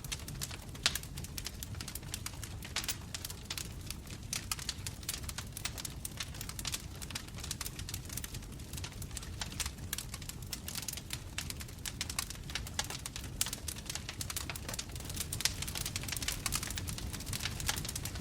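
Wood fire burning, with dense, irregular crackles and snaps of burning wood over a steady low rumble of flames; one sharper pop about a second in.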